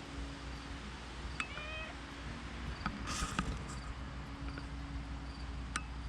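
A domestic cat meows once, briefly, about a second and a half in, over a steady low background. A short rustling scuff follows about three seconds in.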